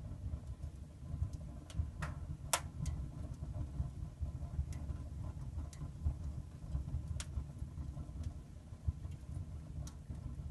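Wood fire burning in a cast-iron stove with a hot-water system: a steady low rumble with scattered sharp crackles, the loudest about two and a half seconds in.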